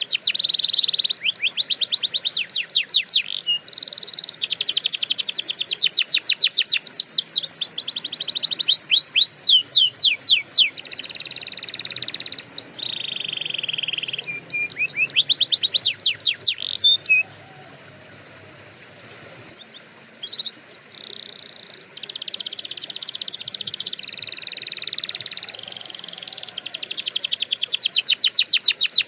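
Canary singing: rapid high trills and rolling runs of quickly repeated notes, with a brief lull past the middle.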